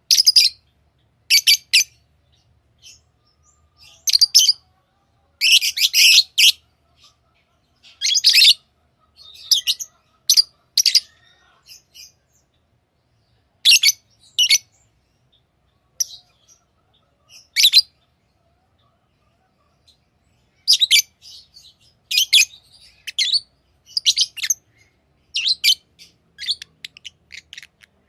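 Pet lovebirds chirping: short, high-pitched calls come in irregular bursts, some in quick clusters, with pauses of a second or more between them. The calls come thicker in the last third.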